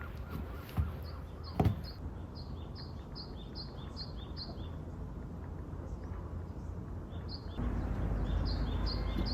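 A bird singing a rapid series of short, evenly repeated high chirps, about three a second, in two runs. Two sharp knocks come early, the second about a second and a half in.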